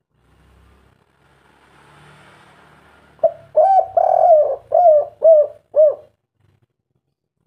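Spotted dove (tekukur) cooing: a phrase of about six coos with one longer, drawn-out note among them, starting about three seconds in after a faint hiss.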